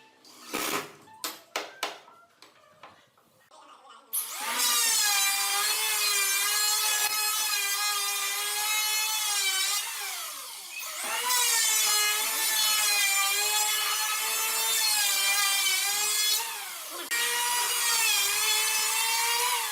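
Handheld electric power tool working wood in three long runs. Its motor whine spins up, holds with slight sagging in pitch under load, and winds down between runs, after a few light knocks at the start.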